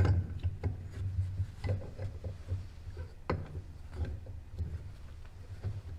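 Irregular knocks, clicks and rubbing of hands working with tools and parts, the sharpest knocks at the start and about three seconds in, over a steady low hum.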